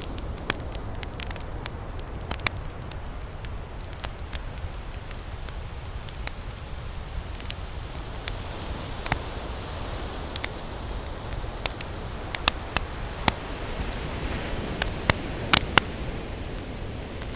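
Wood campfire crackling and popping, with irregular sharp snaps, several louder ones clustered near the end, over a steady low rumble.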